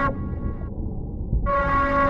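A repeating steady electronic tone, like a warning horn. One tone ends just after the start, and the next begins about a second and a half in and holds for over a second, each followed by a brief fainter echo. Low rumbling noise runs beneath it.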